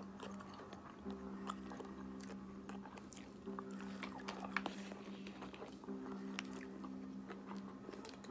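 Close-up eating sounds: chewing, mouth clicks and smacks as takeout beef with broccoli and fried rice is eaten with a plastic fork, over a low steady hum that breaks off briefly every few seconds.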